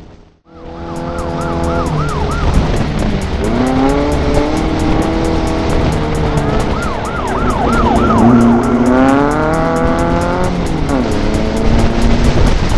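Air-cooled VW Beetle flat-four engine of a Class 11 desert race car revving hard and easing off again and again, heard from inside the car. A short drop to near silence comes half a second in.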